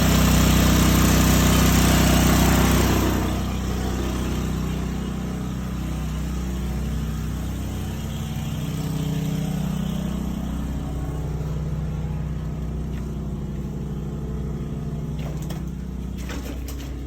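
Sewer water jetter's engine running steadily, with a loud rushing hiss of water that eases off after about three seconds.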